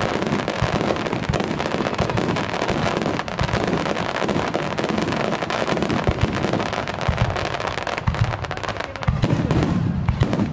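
Aerial fireworks shells bursting in quick succession, with a dense, continuous crackling and deeper booms coming through more strongly near the end. The audio comes from a camera's built-in microphone at a fixed recording level, which blunts the force of the bursts.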